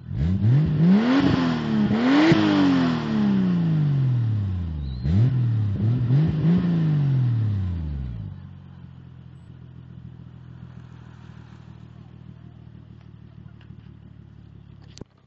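Toyota Supra MK3's 7M-GTE turbocharged straight-six revved through a 3-inch custom turbo-back exhaust: a few quick blips of the throttle, each rising and falling in pitch, for the first eight seconds or so, then settling back to a steady idle.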